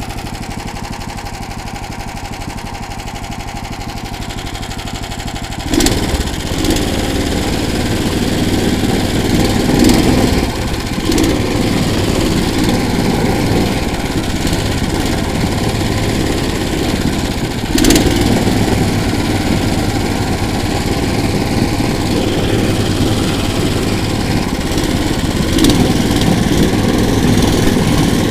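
Small engine of a motorized towing unit (motor-dog) idling, then about six seconds in revving up and running steadily louder under load, with a few short sharp knocks along the way.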